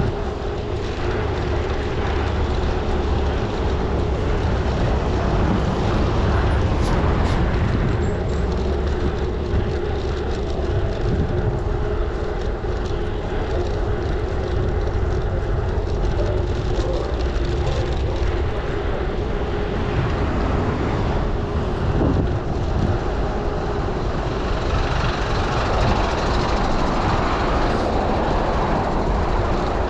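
Wind rushing over the microphone and road rumble while riding, a steady noise with a constant low hum.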